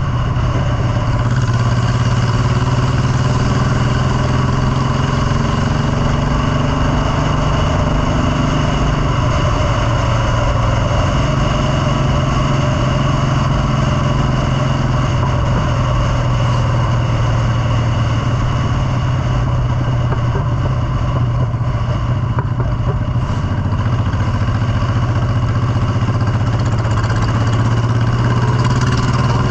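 Motorcycle engine running steadily under way, with a strong low hum and slow, slight rises and falls in engine pitch.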